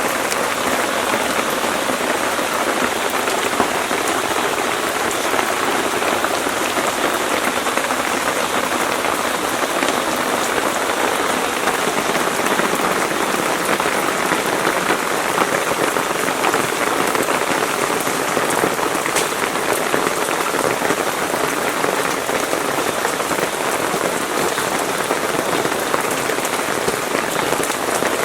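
Steady rain falling: a dense, even hiss of many drops with no break.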